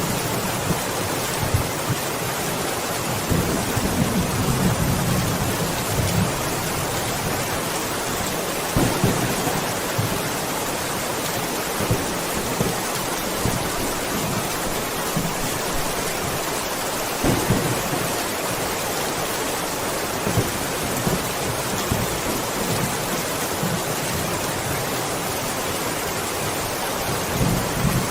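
Steady rain hissing evenly, with low rolls of thunder rumbling in several times: a longer one a few seconds in, others around the middle, and another near the end.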